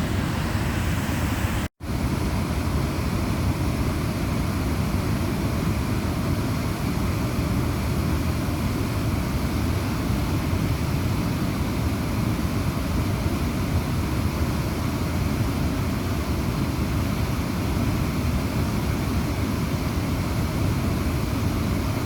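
Waterfall rushing, a steady, unbroken noise of falling water, with a split-second break about two seconds in.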